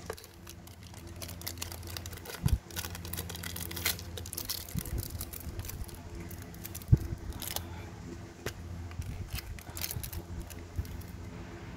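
Zippo lighters handled on a surface: scattered light metallic clicks and taps, the sharpest about two and a half seconds in and again around seven seconds, over a steady low hum.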